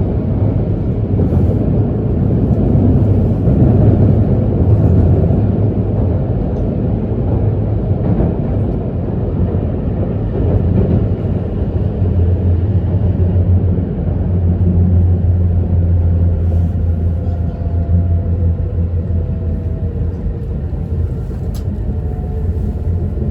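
Steady low rumble and hum of an E2 series Shinkansen train running, heard from inside the passenger car. A faint whine slowly falls in pitch in the second half.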